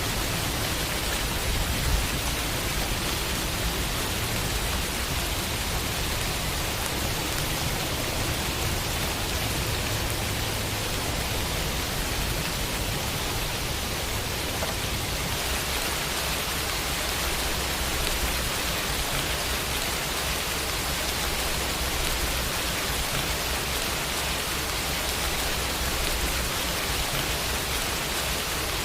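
Steady rain falling on a window: an even, continuous hiss of drops, its tone shifting slightly about halfway through.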